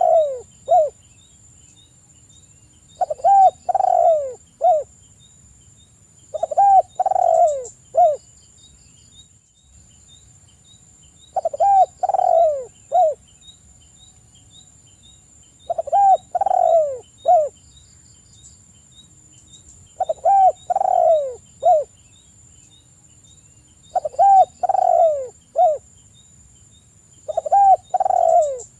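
Spotted dove (tekukur) cooing: a phrase of three or four notes, repeated about every four seconds. Under it runs a faint, steady, high whine with soft regular ticking.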